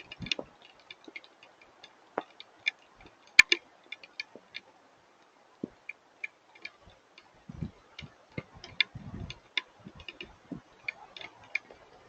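Scattered hail and raindrops landing in irregular sharp ticks and taps, a few a second, over a faint hiss, with a few duller low knocks in the second half.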